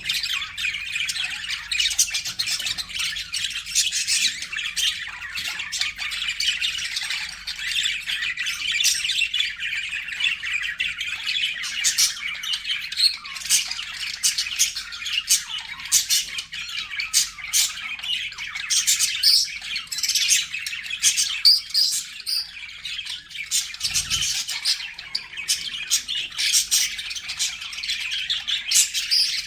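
Budgerigars chattering continuously: many overlapping warbles and chirps with frequent short, sharp calls, as from several birds together.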